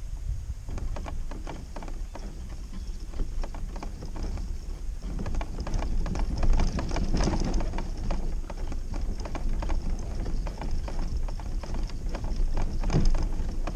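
Homemade kayak cart being pulled along with a kayak on it: the wheels rumble and give off a continual run of clacks and knocks.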